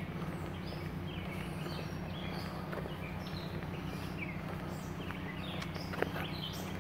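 Small songbirds chirping again and again over a steady low hum, with one sharp tick about six seconds in.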